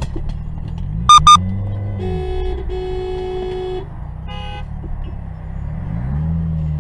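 A car engine running and speeding up, rising in pitch twice, while car horns sound over it. Two short, very loud beeps come about a second in, then a lower horn is held for nearly two seconds with a brief break, and a short higher beep follows.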